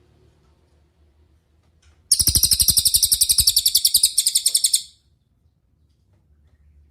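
A cililin singing one rapid, high, buzzy trill of about a dozen notes a second. It starts about two seconds in, lasts nearly three seconds, and breaks briefly just before it ends.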